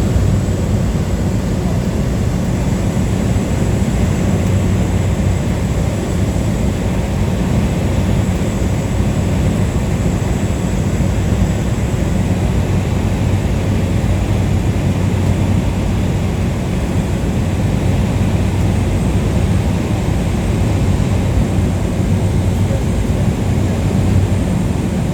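Light aircraft's engine and propeller running steadily in cruising flight, heard from inside the cabin as a loud, even low drone.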